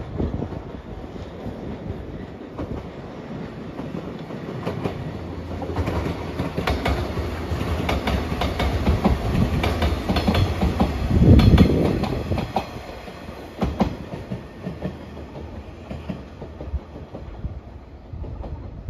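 JR 115 series electric multiple unit passing, its wheels clicking over the rail joints in quick rhythmic groups. It grows louder as it approaches, is loudest about eleven seconds in as it goes by, then fades as it pulls away.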